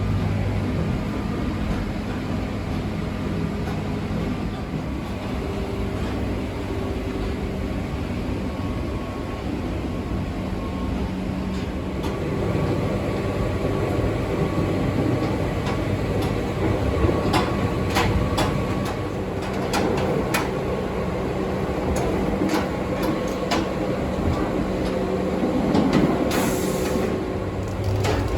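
Abukuma Express 8100 series electric train running, heard from on board: a steady rumble of running noise with a few steady tones. Clusters of sharp clicks and knocks come a little past halfway and again near the end.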